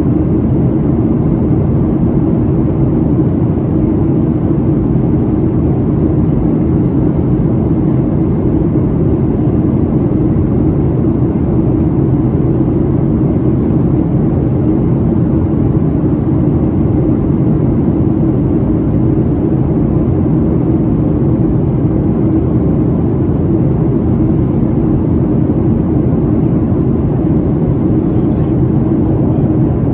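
Steady cabin noise inside a Boeing 737-700 in descent: the rush of airflow over the fuselage and the low, even drone of its CFM56-7B turbofan engines, heard from a window seat.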